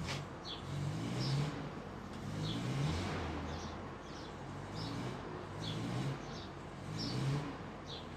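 Clarke folding engine crane squeaking in a steady rhythm about once a second as it lowers a V12 engine, each squeak a short rising tone.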